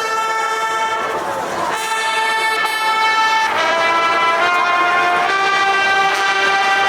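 Brass band playing long held chords, several notes sounding together and shifting to new notes every second or so.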